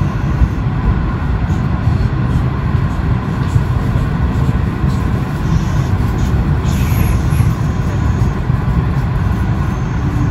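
Kintetsu commuter train pulling out of a station: a steady low rumble of wheels and running gear, heard from inside the train behind the driver's cab, with a few faint clicks about seven seconds in.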